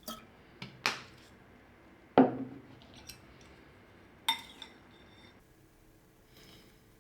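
Dishes and utensils being handled: a series of separate knocks and clinks, about seven, some ringing briefly, the loudest a little over two seconds in.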